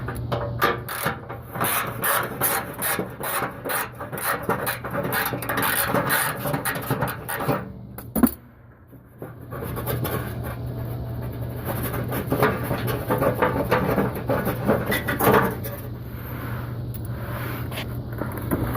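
Hand ratchet wrench clicking in quick rasping runs as the bolts of a heat shield are loosened, with a brief pause and a single sharp knock near the middle, then more ratcheting.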